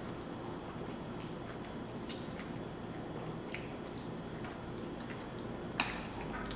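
Faint wet chewing of a mouthful of spaghetti casserole, with small scattered mouth clicks. One sharper tap just before the end, as the fork goes back into the glass baking dish.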